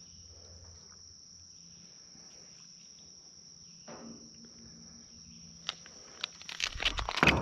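Crickets trilling steadily in one high, unbroken note. Near the end comes a quick run of sharp clattering knocks, louder than the crickets.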